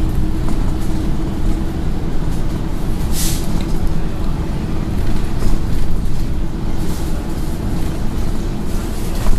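Scania N113 bus's diesel engine running and road rumble while under way, heard from inside the bus. A short hiss of air about three seconds in.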